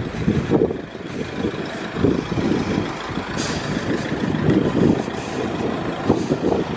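Street traffic with a heavy vehicle running, its noise rising and falling unevenly, and a brief sharp hiss about three and a half seconds in.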